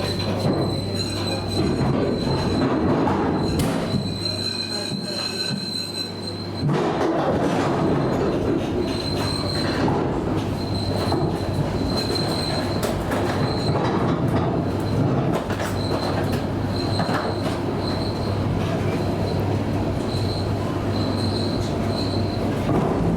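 ED9M electric multiple unit running, heard from aboard: a steady low hum with wheel rumble, and a high wheel squeal that comes and goes. The sound gets suddenly louder about six and a half seconds in.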